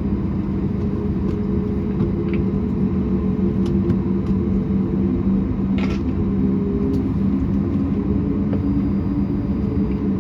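Cabin noise of a Boeing 737-8 MAX with its CFM LEAP-1B engines running: a steady low hum with several steady droning tones.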